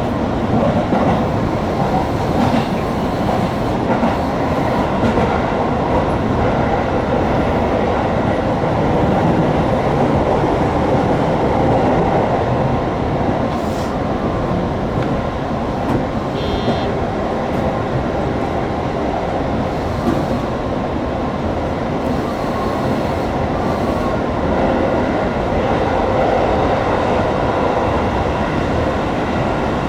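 205 series electric train running on the line, heard from the front cab: a steady rumble of wheels on rail with a few light clicks. A brief high tone sounds about halfway through.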